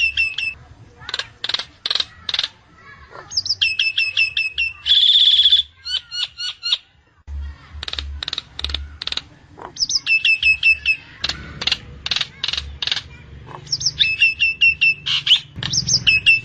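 Nias hill myna singing: repeated phrases of quick, falling whistled notes mixed with sharp clicks, and one loud, harsh buzzy call about five seconds in.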